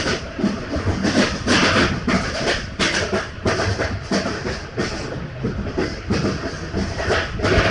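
Passenger train running, heard from on board: a steady low rumble with the repeated clatter of wheels over rail joints.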